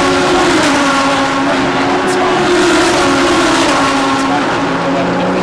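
DTM GT3 race cars' engines running at speed, several engine notes holding steady and shifting slightly in pitch.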